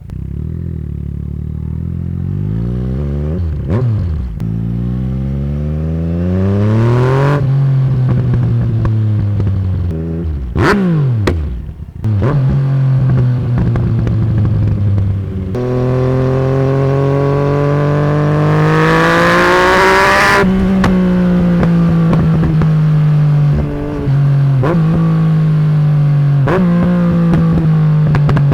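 Yamaha MT-09 three-cylinder engine through a straight-pipe de-cat exhaust, accelerating through the gears: its pitch climbs and drops at each shift, several times. About ten seconds in, the throttle closes and the exhaust pops and cracks before it pulls again.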